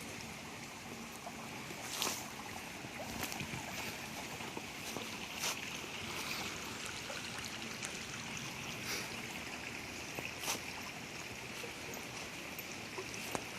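Steady rush of a small stream's running water, with a handful of brief sharp clicks or splashes scattered through it.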